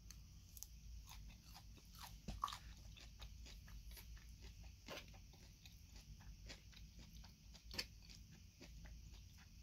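Close-up mouth sounds of a person chewing crunchy salad: many short, crisp crunches at an irregular pace, with a louder crunch a little over two seconds in and another near the end.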